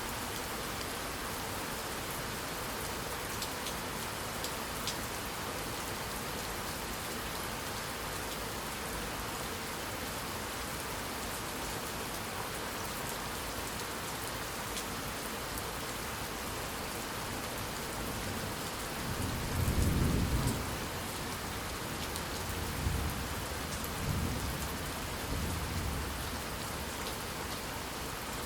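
Steady heavy rain hissing on a surface. Thunder rolls in about two-thirds of the way through, with a deep rumble that swells and fades, followed by a few smaller rumbles.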